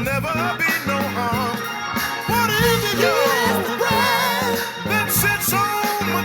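Live gospel praise music from a church band: a steady bass line under a melody that slides and wavers in pitch.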